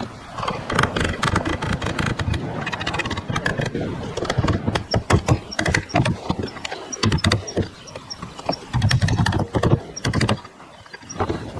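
A dense, irregular run of knocks and clicks with rough scraping between them.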